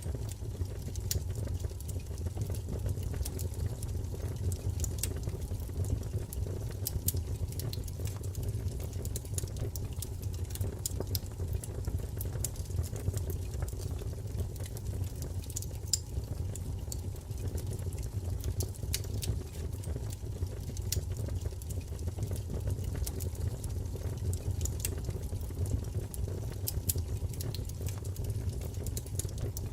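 Wood fire burning in a fireplace: a steady low rumble of flame with frequent small crackles and pops from the burning wood.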